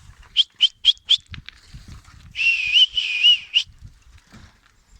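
Whistling to call goat kids: a quick run of about five short, rising high chirps, then a longer whistle whose pitch wavers up and down.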